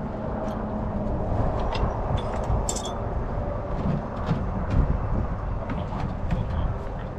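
Steady low vehicle rumble with scattered light clicks.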